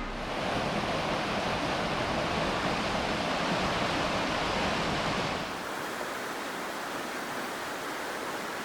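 Steady rush of fast-flowing water. About five and a half seconds in it changes to a slightly quieter, duller rush.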